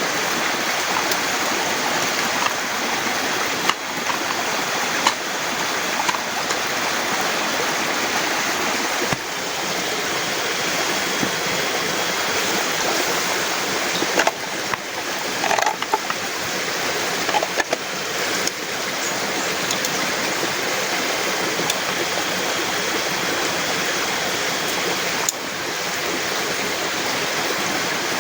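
Heavy rain falling in a steady, dense hiss, with a few scattered sharp taps and knocks about a third and two thirds of the way through.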